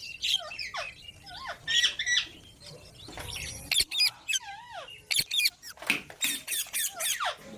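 Pet green parrots chattering in a run of short squeaky calls and harsh squawks, many of the calls sweeping down in pitch.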